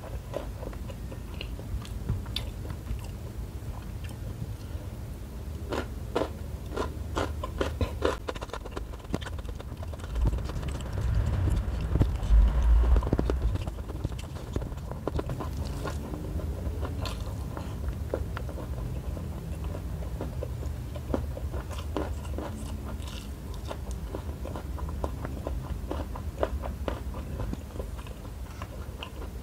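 Close-miked chewing of rice with shrimp and petai-bean sambal: wet mouth clicks and smacks with some crunch, going on steadily. About halfway through there is a brief louder low rumble.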